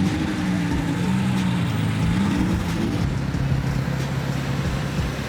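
Car engine running, its pitch rising and falling for the first three seconds or so, then holding steady at a lower pitch.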